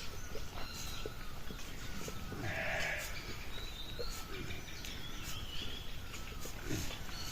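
Sheep bleating, with a louder call about two and a half seconds in, over scattered small clicks and faint chirps.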